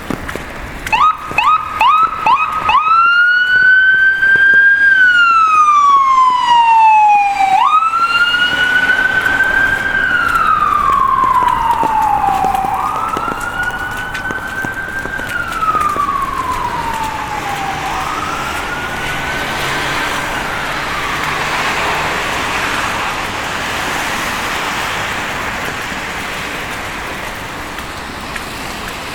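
Emergency vehicle siren: a few short yelps, then a wail that rises quickly and falls slowly, repeating several times and fading away as the vehicle moves off, leaving a steady hiss of street noise.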